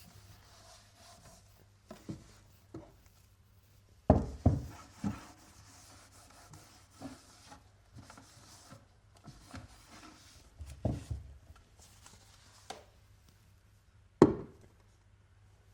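Objects handled and set down on a hard surface: a few irregular knocks and bumps with light rubbing between them. The loudest come about four seconds in, around eleven seconds, and one sharp knock near the end.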